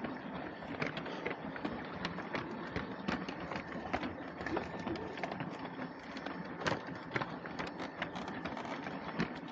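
LEGO train running on plastic track: a steady small-motor whirr with frequent irregular clicks and clatter.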